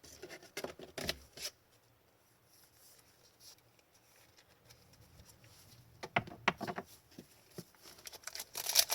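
Trading cards and a foil pack wrapper being handled: scattered short rustles and taps, a quiet stretch, then a burst of crinkling near the end.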